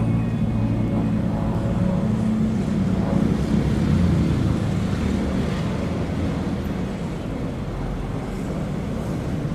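Diamond DA20-C1 light aircraft's four-cylinder piston engine and propeller droning overhead, the drone easing and turning to a broad rumble toward the end.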